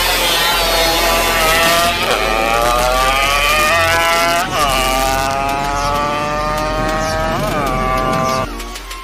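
Two-stroke motorcycle engine accelerating hard through the gears. Its pitch climbs steadily and drops back at each of about three upshifts, then cuts off abruptly near the end.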